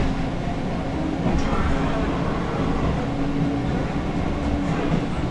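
JR West 221 series electric train heard from inside the car while running at speed: a steady rumble of wheels on rail, with a motor hum that rises slightly in pitch.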